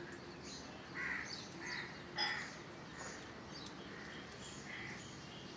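Wild birds calling: a few louder calls about one and two seconds in and again near the end, with quieter high chirps in between.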